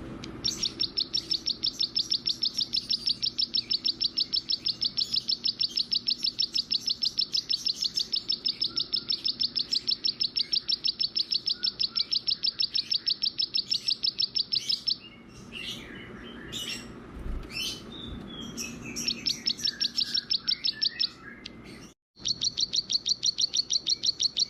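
A small songbird singing a long, fast trill of rapidly repeated high notes. About fifteen seconds in it breaks into a few scattered chirps before the trill resumes. Near the end the sound cuts out for a moment, and the trill starts again.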